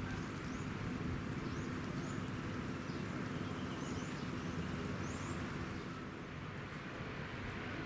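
Small birds chirping: short high calls, often in pairs, repeated over about five seconds, over a steady background hum.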